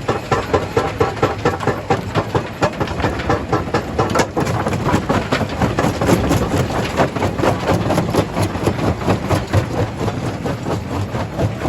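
Jaw crusher running and crushing stone: a loud, continuous clatter and grinding of rock with a rapid rhythm of knocks, about three a second, over the steady drone of the machine.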